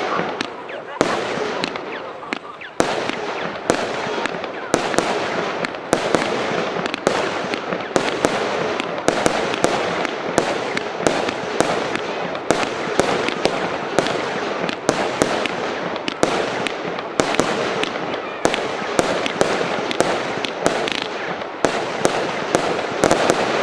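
Spanish-made 50-shot consumer firework battery firing, with sharp reports about twice a second over a dense, continuous rush of noise. It starts to die away near the end.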